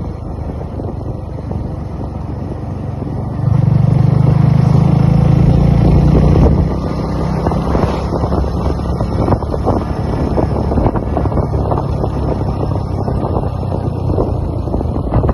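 Motorcycle engine running steadily on the move, with wind noise on the microphone. The engine note grows louder for about three seconds near the start, then settles back.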